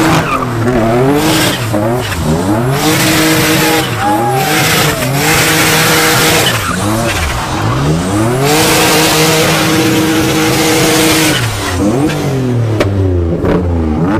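Boosted Nissan 350Z drift car's V6 revving up and falling back over and over through a drift run, with several long stretches of tire squeal as the car slides.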